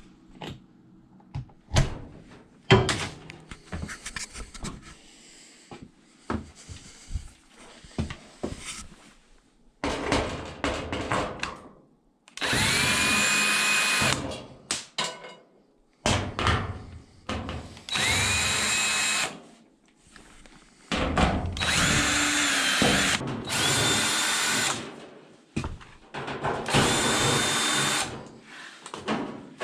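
Power drill run in short bursts of one to three seconds, five or six times in the second half, each rising in pitch as it spins up and then holding steady. Before that come scattered clicks and knocks of handling tools and parts.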